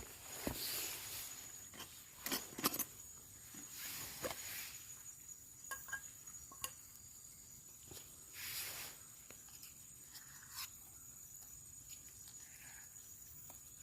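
Scattered clicks, knocks and short rustling swishes of camp gear and things being handled, over a steady high insect drone from the forest.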